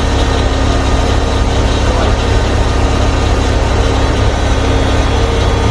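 Steady, loud low mechanical drone with no revving and no sudden changes, in a dyno cell.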